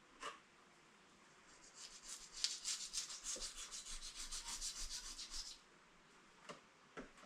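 Rapid back-and-forth rubbing strokes, about seven a second for roughly four seconds, as a door frame is cleaned down by hand. A few short knocks come near the start and near the end.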